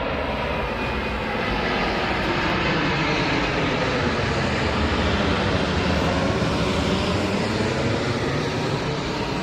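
Boeing 787-8 Dreamliner's jet engines running on approach, a steady loud rushing roar that swells a little toward the middle and eases slightly near the end.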